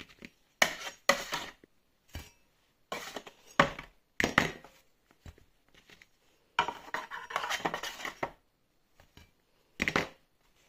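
Dishes and utensils clattering and scraping in about five short bursts, with quiet gaps between them, as freshly baked honey cookies are handled.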